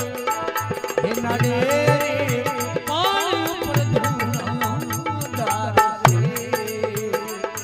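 Rajasthani devotional folk bhajan music, instrumental: a melody that bends and glides in pitch over a steady drum beat and regular jingling percussion.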